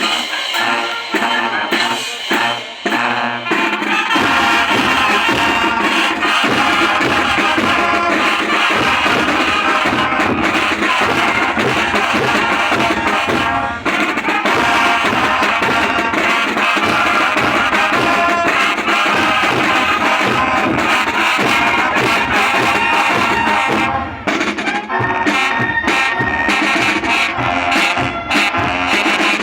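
Student band playing music with drums, percussion and brass. The deep bass comes in about four seconds in.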